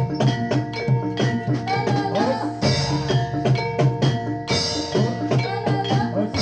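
Live Jathilan accompaniment music: a Javanese percussion ensemble with drums beating a quick, even rhythm over ringing tuned metal percussion.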